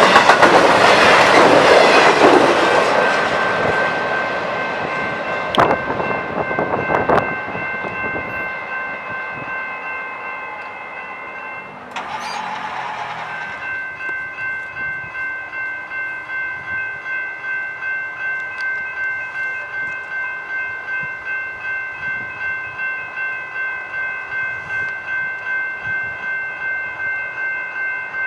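A train passing at a railroad grade crossing, loud at first and fading over about eight seconds, with sharp wheel clicks near the end of the pass. As it fades, the crossing warning bell comes through ringing, with a brief louder burst about twelve seconds in, then rhythmic dinging at about one and a half strikes a second.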